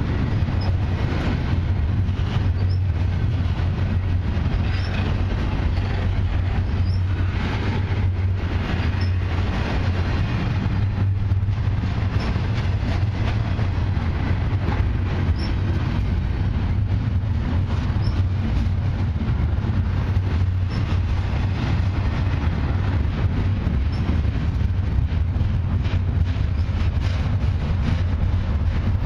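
Double-stack intermodal well cars of a long freight train rolling past: a steady low rumble of steel wheels on rail with an irregular clatter running through it.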